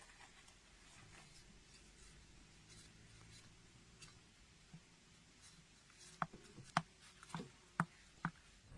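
Faint background, then about five light, sharp knocks or clicks in quick succession over the last three seconds.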